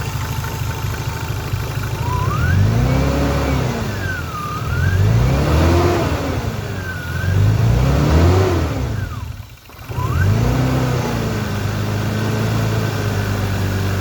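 Turbocharged 1993 BMW 325i's straight-six engine blipped three times from idle and then settling back, with a thin high whine that rises and falls with engine speed. This is the alternator whining, and the owner thinks its pulley is starting to seize.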